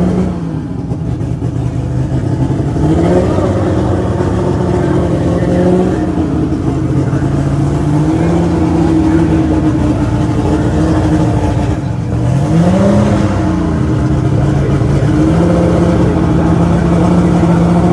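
Drag racing car engine revving: the engine climbs to a held high rpm, falls back, and climbs again several times, with one short rise and fall near two-thirds of the way through.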